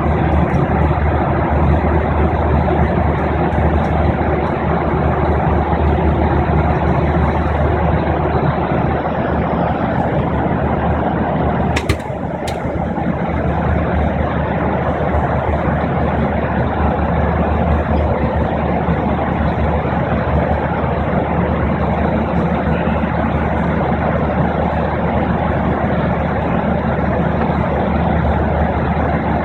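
Steady cabin noise of a jet airliner in cruise: engine and airflow rumble with a low hum. A brief click about twelve seconds in, after which the noise dips for a moment.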